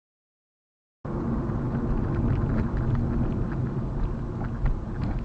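Complete silence for about a second, then the steady low rumble of a vehicle driving: engine and road noise.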